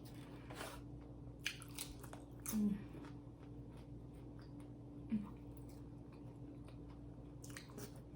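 A person chewing and biting into food close to the microphone: soft, wet mouth clicks and smacks, with a couple of louder bites about two and a half and five seconds in. A faint steady hum runs underneath.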